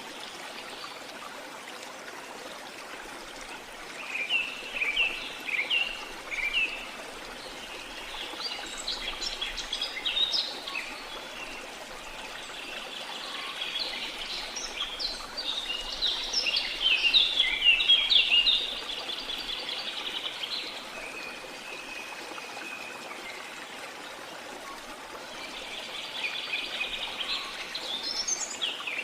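Steady rush of flowing water, with birds singing over it in repeated bursts of quick chirps and trills that start about four seconds in and come and go, loudest a little past the middle.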